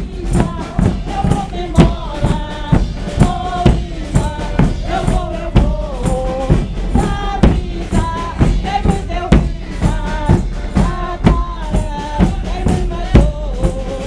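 Portuguese bombo bass drums with snare drums beating a steady rhythm, with strong beats about twice a second, under a bending melody line.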